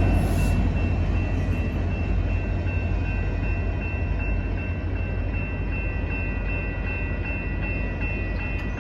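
Train running past on the tracks, its low rumble slowly fading as it moves away.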